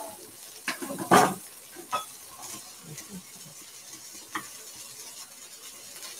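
Thin-sliced beef strips sizzling in a hot cast iron pan, with a few knocks and scrapes of a utensil stirring them against the pan. The loudest knock comes about a second in.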